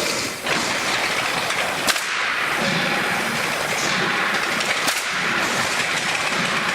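Automatic pallet nailing machine running: a steady, loud mechanical din with two sharp cracks, about two and five seconds in.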